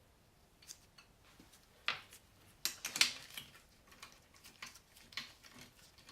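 Scattered sharp metallic clicks and clinks of hand tools and loose engine parts while the rocker gear of a BMW R80 airhead cylinder head is taken apart. The loudest come in a short cluster about two to three seconds in.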